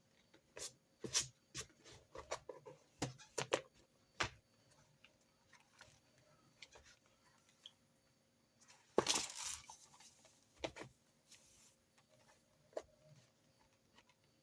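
Desk sounds of handwritten note-taking: scattered small clicks and taps of pens and stationery being picked up and set down, with a short rustling burst about nine seconds in.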